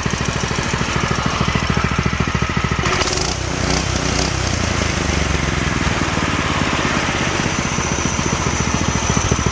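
Predator 212 single-cylinder four-stroke engine running on its first start-up, its speed shifting briefly about three seconds in before settling back to a steady run.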